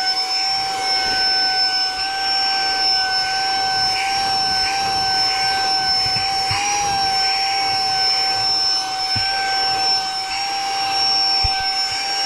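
Saker 3-in-1 cordless handheld vacuum's brushless motor running at regular speed with no attachment on the intake: a steady high whine over a rush of air, its pitch wavering slightly as it picks up debris.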